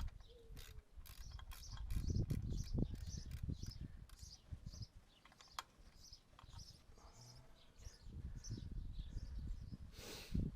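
Hand tools clicking and knocking on the steel track frame of a Takeuchi mini excavator, with ratchet-like clicks and a few low thuds, during removal of a worn track wear pad.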